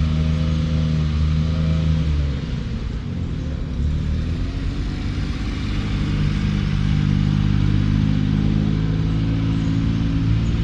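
A vehicle engine running, easing off about two seconds in and picking up again over the next few seconds.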